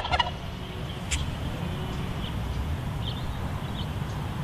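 A domestic turkey's gobble trails off in the first moment. Then comes outdoor farmyard ambience: a steady low rumble with faint, scattered chirps of small birds and a single click about a second in.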